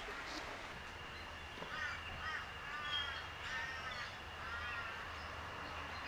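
A bird calling outdoors: a series of about five short pitched calls starting about two seconds in, over a faint steady high tone.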